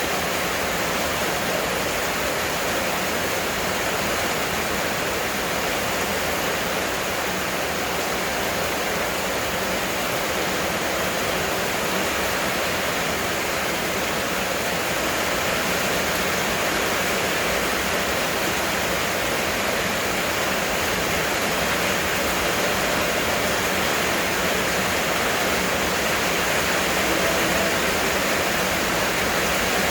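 Heavy rain pouring down, a steady dense rushing hiss.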